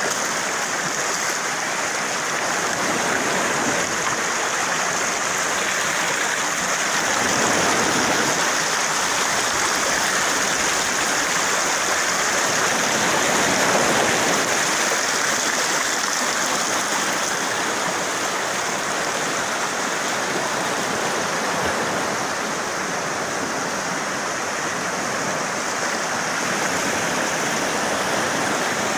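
Steady, loud rush of running water from a stream or waterfall, swelling slightly now and then.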